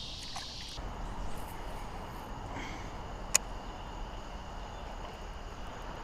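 Steady outdoor background hiss with insects chirring at first, their sound stopping within the first second. A single sharp click comes about three and a half seconds in.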